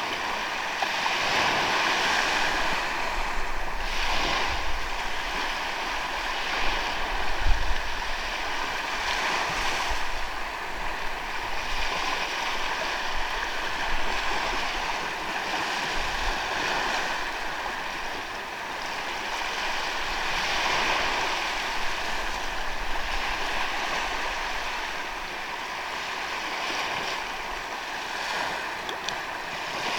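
Sea waves washing onto a sandy beach, the surf swelling and falling back every few seconds. Wind buffets the microphone in low rumbles now and then, most strongly about a third of the way in.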